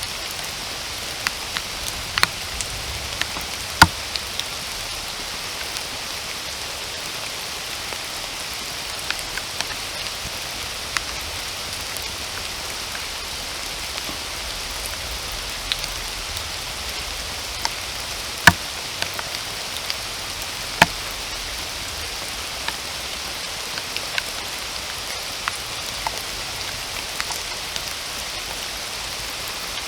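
Steady rain falling in a forest: an even hiss with scattered sharp drips landing close by. The three loudest drips come about four seconds in and twice around two-thirds of the way through.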